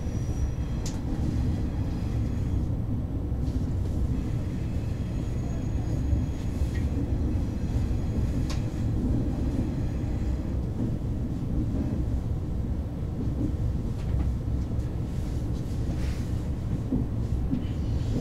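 KTX high-speed train running, heard from inside the passenger car: a steady low rumble with a few faint clicks.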